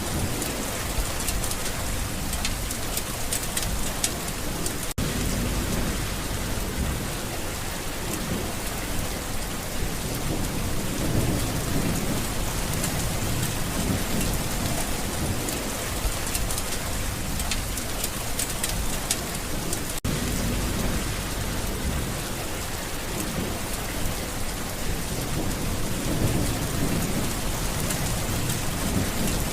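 Steady rain falling, with low rumbles of thunder swelling and fading every several seconds.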